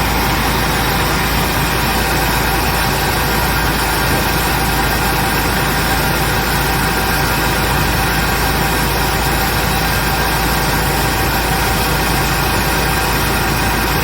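Cabbage washing machine running steadily, a constant loud mechanical drone with several steady hums mixed in.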